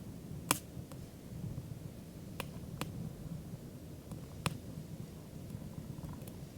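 Campfire of stacked firewood burning, with sharp pops and crackles, the loudest about half a second in and another near four and a half seconds, over a low steady rumble.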